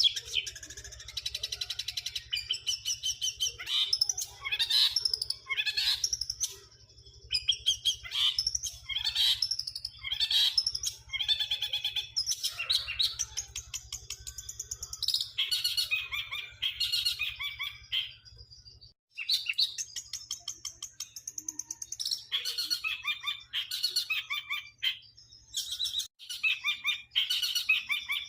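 Long-tailed shrike (cendet) singing a fast, chattering song of repeated chirps and trills in phrases broken by short pauses. The song mimics the chirping of the tree sparrow (burung gereja).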